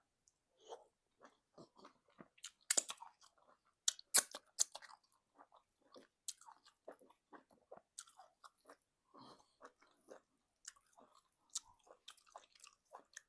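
Close-miked mouth sounds of someone eating egusi soup and semolina: chewing with many short, sharp wet clicks, loudest in a cluster about three to four seconds in.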